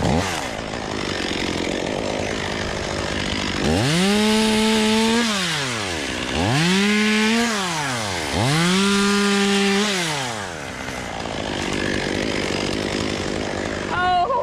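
Two-stroke chainsaw revved three times: each time the engine climbs to full throttle, holds there for a second or so, then drops back toward idle. A steady rushing noise fills the stretches between.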